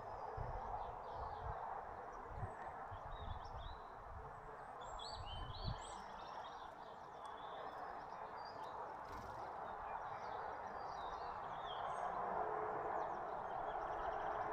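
Small songbirds chirping and twittering in short, scattered calls, busiest in the first half. The calls sit over a steady background noise, with a few soft low thumps early on.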